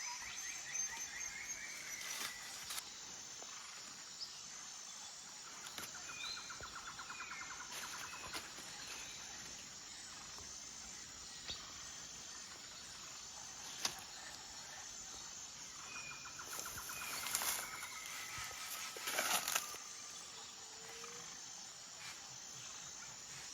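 Forest birds calling: rapid trilled calls repeated a few times, short chirps, and a regularly repeated high note. Several sharp clicks or snaps break in, the loudest a cluster late on.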